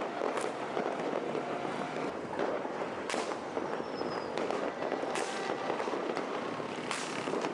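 Many fireworks and firecrackers going off at once in a dense, continuous crackle, with louder single bangs about every two seconds. A brief falling whistle comes in the middle.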